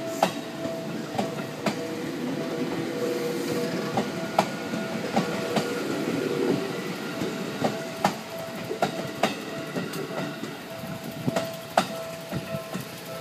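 Seibu Tamagawa Line train rolling slowly, its wheels clicking irregularly over rail joints and points above a steady rumble. The rumble eases a little after about halfway.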